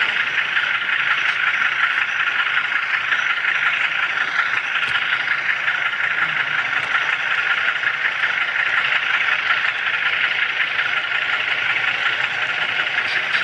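Steady rushing noise of HO scale model train wheels and running gear on the track, heard from a camera car riding the rails.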